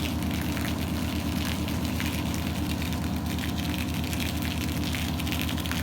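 A car wash vendo's foaming shampoo cycle running: a pump motor keeps up a steady low, pulsing hum while the foam sprays out of the nozzle with an even hiss.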